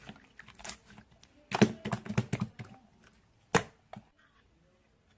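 Sharp, quick clicks and taps in irregular runs, with a dense flurry about a second and a half in and a last loud single click a little after three and a half seconds.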